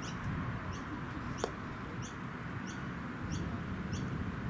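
A bird giving a short high chirp over and over, a little under twice a second, over steady low background noise. A single sharp click about a second and a half in.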